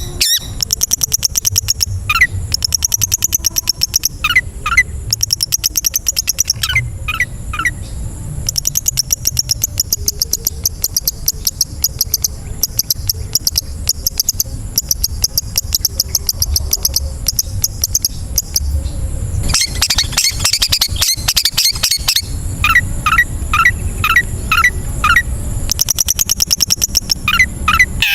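Long-tailed shrike (cendet) singing a full, mimicry-packed song: long runs of very fast, high chattering notes, broken by short series of lower whistled notes that slur downward. A harsher, denser burst comes about two-thirds of the way in. A faint steady high whine runs underneath.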